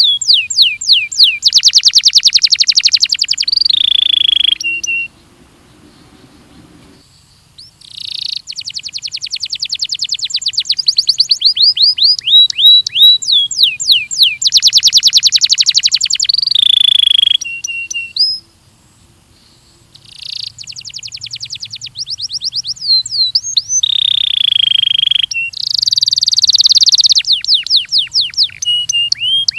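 Belgian canary singing: long phrases of rapid trills and downward-sweeping whistled notes, broken by two pauses of a few seconds, about five seconds in and about eighteen seconds in.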